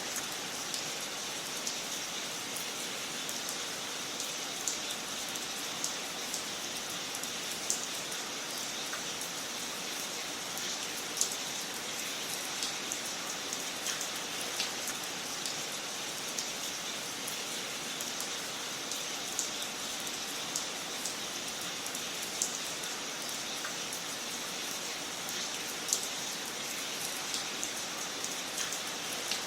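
Wood fire crackling in a fireplace: a steady hiss with irregular sharp pops and snaps, a few of them louder than the rest.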